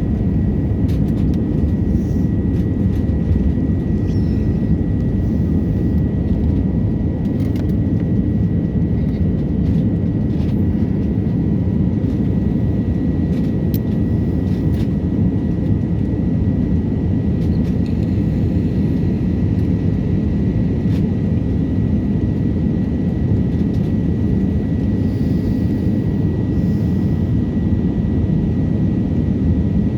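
Steady low roar of an airliner's jet engines and rushing air heard inside the passenger cabin during the takeoff climb, with a faint steady high tone over it.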